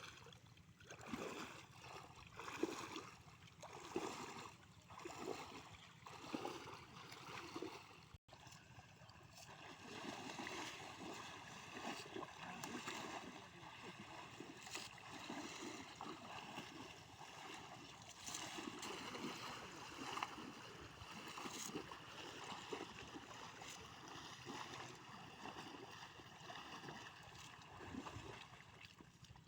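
River water being stirred and splashing, with rhythmic splashes about once a second for the first eight seconds. After a brief dropout it gives way to a steadier wash of moving water.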